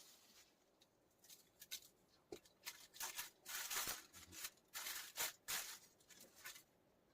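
Salt being shaken out of its container onto the fish: a string of short, dry rustling bursts, starting about two seconds in and stopping about six and a half seconds in.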